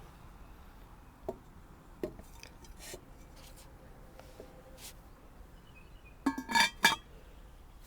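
Ceramic cookie jar being handled: a few light knocks, then a quick run of clinks with a short ring near the end, ceramic against ceramic.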